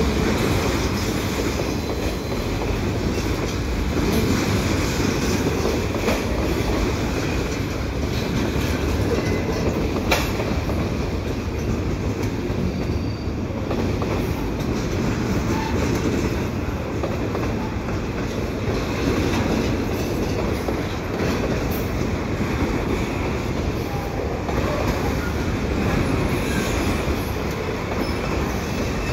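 Double-stack container well cars rolling past: a steady rumble of steel wheels on the rails, with one sharp clank about ten seconds in.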